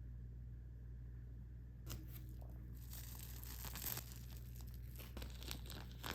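Plastic food packaging crinkling and tearing as it is opened. It starts about two seconds in as a dense run of sharp crackles, loudest in the middle and again near the end.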